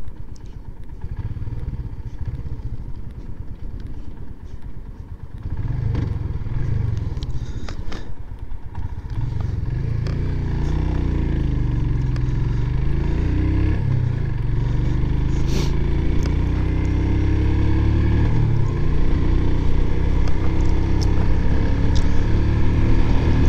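Royal Enfield Himalayan's single-cylinder engine pulling away from a turn and accelerating up through the gears, with brief dips at the shifts. It then settles into a steady, gradually louder highway run.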